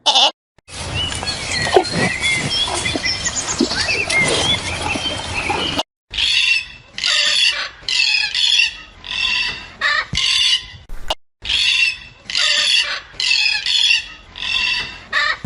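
Animals calling: a dense stretch of squeals and chirps for the first few seconds, then a run of repeated squawking calls, about one and a half a second.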